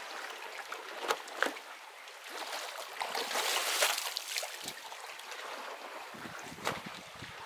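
Sea water washing and splashing against shoreline rocks, swelling about three to four seconds in, with a few short sharp sounds along the way.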